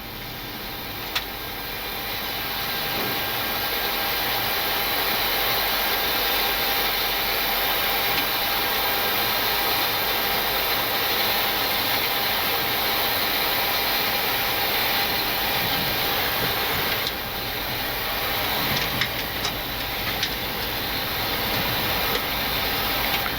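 Steady rushing noise of air and engines in a Boeing 737-800 cockpit on final approach, with the landing gear down and flaps at 30. It swells over the first few seconds and then holds; one sharp click about a second in and a few small clicks near the end.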